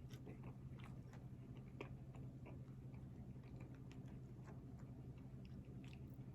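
A person chewing food: many soft, irregular wet clicks and small crunches over a steady low hum.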